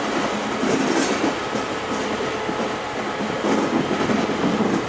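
Vintage passenger train rolling slowly over the rails, heard close to the wheels from the coach window: steady running noise with wheels and couplings clattering over the track, louder in a few brief clatters.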